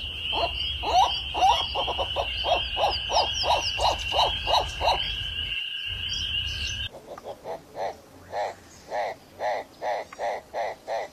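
An animal calling in a fast series of short, repeated notes, about three a second, over a steady high-pitched whine. About seven seconds in, the sound cuts to a slower series of short calls with gaps between them.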